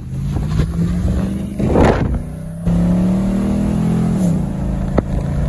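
A vehicle's engine accelerating, its pitch rising steadily and then dropping at a gear change about four seconds in. A brief loud rush of noise comes about two seconds in, and a sharp click near the end.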